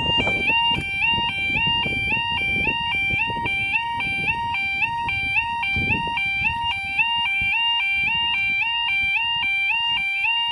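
Level crossing audible warning alarm sounding: an electronic two-tone alarm stepping rapidly and evenly back and forth between a lower and a higher pitch. It signals that the barriers are coming down for an approaching train.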